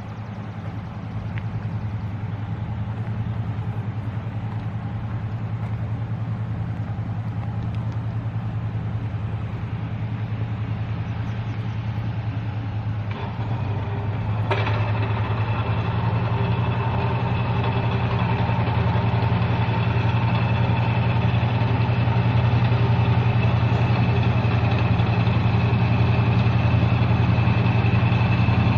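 A motor vehicle engine running steadily with a low hum. It grows gradually louder, with a step up about halfway through and a short sharp sound just after.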